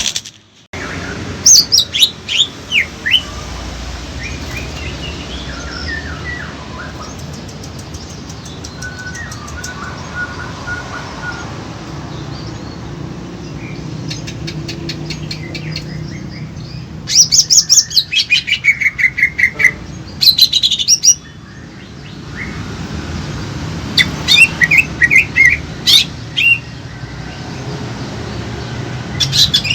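Several songbirds singing and answering one another, provoked into song. They sing in loud bursts of rapid, sharply falling chirps: one near the start, a longer run a little past the middle, and another near the end, with fainter calls in between.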